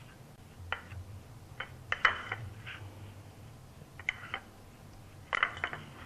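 A utensil stirring a dry mix of flour and grated Parmesan in a pie plate, striking and scraping the dish in irregular light clinks, a few small clusters, the loudest about two seconds in and again near the end.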